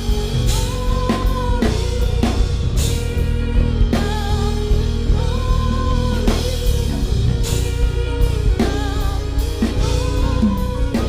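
Live worship band music: a drum kit keeping a steady beat with bass drum and snare, over sustained keyboard chords and bass.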